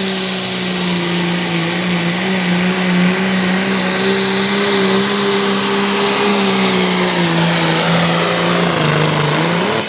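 Turbocharged diesel pulling tractor's engine running flat out under full load while dragging the weight-transfer sled: a loud, steady drone whose pitch sags slightly toward the end, then rises briefly and falls away as the pull ends.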